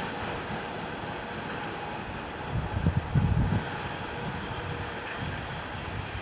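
Freight train rolling past with a steady rumble of wagons, and a short burst of louder, low rumbling near the middle.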